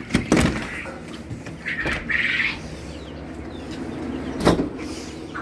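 Sharp knocks, as of a lid or door being opened and shut, near the start and again about four and a half seconds in, over a steady low hum, with a short bird chirp about two seconds in.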